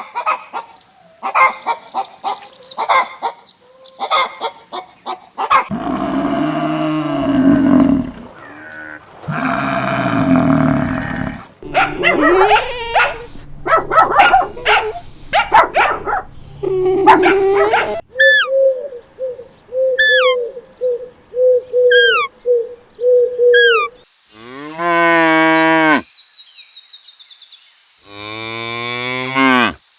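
A run of different farm animal calls, with cattle mooing the most prominent: two long, low moos about six and ten seconds in, among shorter calls and a series of short falling chirps later on.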